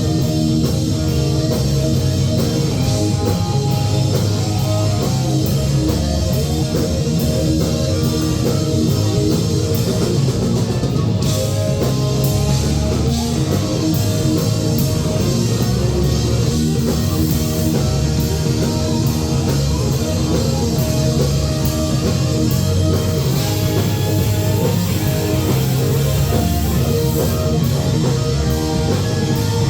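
Rock band playing live, with electric guitar and drum kit.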